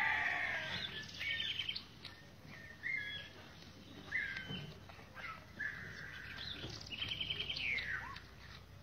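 Birds calling in the background: separate short whistled chirps, two quick trills (one about a second in, one near the end) and one longer held note around the middle. A louder, lower call trails off in the first second.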